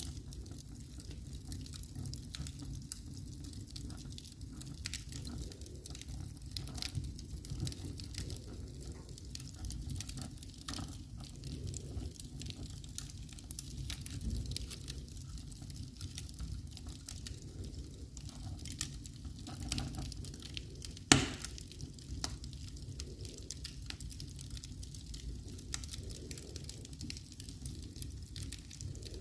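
Wood fire burning in a fireplace, crackling steadily with many small pops over a low rumble, and one sharp, louder pop about two-thirds of the way through.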